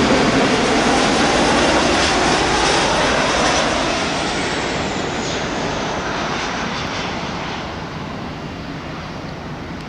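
Four turbofan engines of a BAe 146 jet after landing. The engine noise is loud at first, then fades steadily from about four seconds in as the aircraft moves away.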